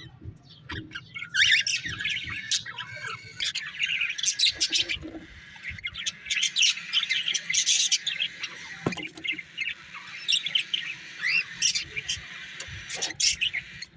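Several small cage birds chirping and twittering at once, many short high calls overlapping without a break.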